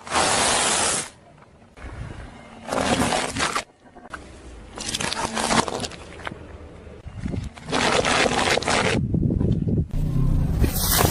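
A car tyre rolling over and crushing objects, heard as four separate bursts of crushing noise about a second long each, two to three seconds apart, with a longer, busier stretch near the end.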